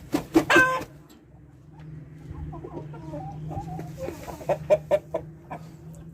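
Aseel chickens clucking, with a loud squawking call in the first second and a string of short clucks and calls after it. A steady low hum runs underneath.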